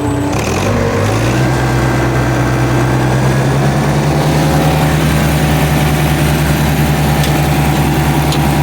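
International Harvester 574 tractor's gasoline engine running steadily under load near PTO speed. Its pitch steps up a little in the first few seconds, then holds even. With its new Pertronix electronic ignition it runs smoothly, with no miss.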